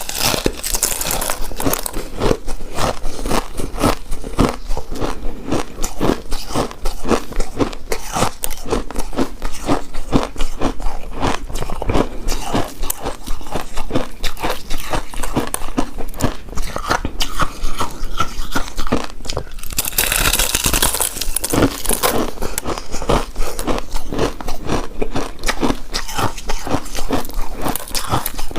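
Close-miked chewing of a soft, chewy coconut-coated rice cake: a dense, continuous run of small mouth clicks, with a louder, hissier stretch about twenty seconds in.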